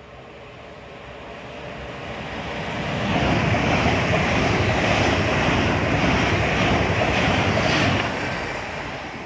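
Class 350 Desiro electric multiple-unit train passing close by: the rush of wheels and air builds over about three seconds, stays loud for about five, then drops off near the end as the last coach goes by.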